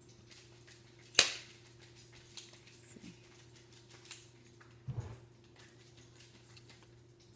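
Cutlery clinking and scraping on a dinner plate: light scattered clicks, one sharp clink about a second in, and a dull knock near five seconds, over a steady low hum.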